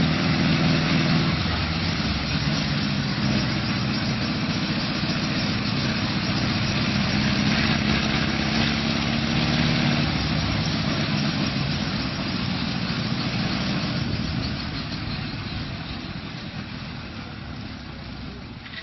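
Homemade helicopter's engine running loudly and steadily, then getting gradually quieter over the last few seconds.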